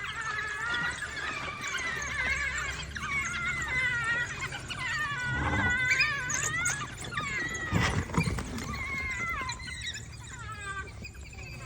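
A pack of African wild dogs giving many overlapping high-pitched twittering calls, with two louder, fuller bursts of sound about five and a half and eight seconds in.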